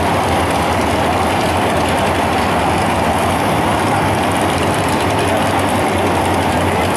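Engines of two drag-racing cars idling at the start line, a loud, steady rumble with no revving.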